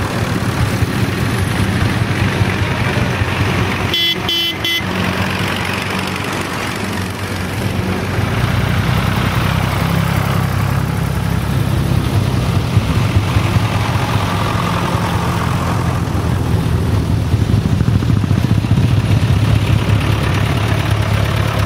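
Old tractor engines running steadily, growing louder about eight seconds in. A short horn toot sounds about four seconds in.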